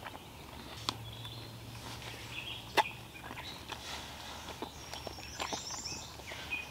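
Birds calling faintly over quiet outdoor ambience, with a few sharp clicks, the loudest about one second and three seconds in.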